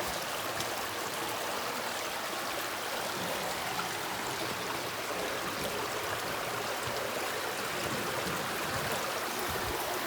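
Small stream flowing: a steady rush of water over rocks.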